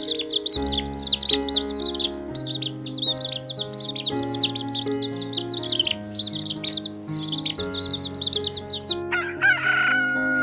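Rapid high bird chirping, many calls a second, over background music. About nine seconds in the chirping stops and a single long, drawn-out bird call starts, dropping in pitch as it ends.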